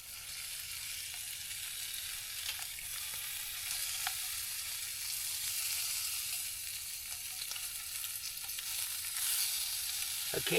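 Bacon sizzling and crackling in a hot pan, a steady frying hiss with small scattered pops.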